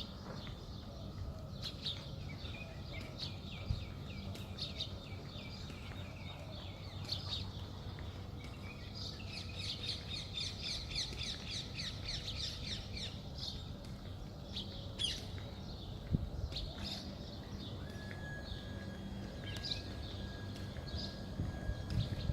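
Small birds chirping and twittering in quick repeated series, busiest about 9 to 13 seconds in, over a low steady background hum.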